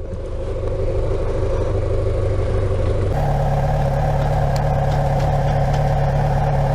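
2012 Yamaha FZ6R 600cc inline-four motorcycle engine running as the rider pulls over. About three seconds in its note changes to a different steady hum.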